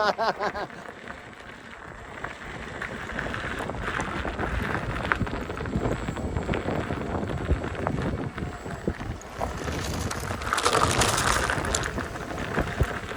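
Wind buffeting the microphone over the rumble of an electric unicycle riding a rough trail, with many small knocks and rattles from the bumps. About ten seconds in, a louder rushing hiss lasts for a second or two.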